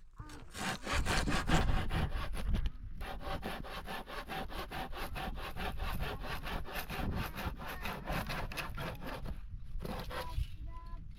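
Handsaw cutting through wood in quick, even back-and-forth strokes, with a short pause about three seconds in, stopping near the end.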